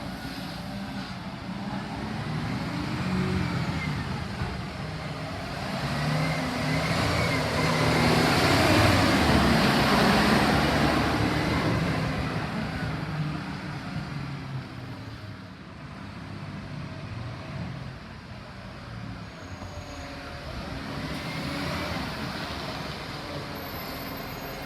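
Road vehicle noise: an engine running steadily while a vehicle drives past close by, the sound swelling to its loudest about midway and then fading.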